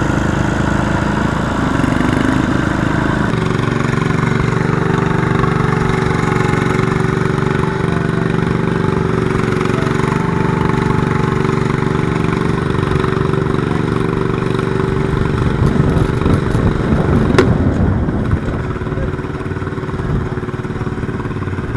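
Garden tractor engine running steadily, its note shifting about three seconds in. There is a single sharp crack about 17 seconds in, and the engine runs quieter after it.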